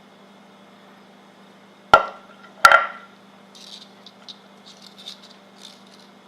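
Two sharp knocks with a brief ring, then light clicks and rattles: tools and parts handled during repair of a paramotor's recoil pull-starter.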